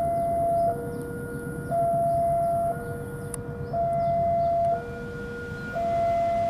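Railway level-crossing warning alarm sounding its two-tone signal, a higher and a lower tone alternating, each held about a second, to warn that a train is approaching.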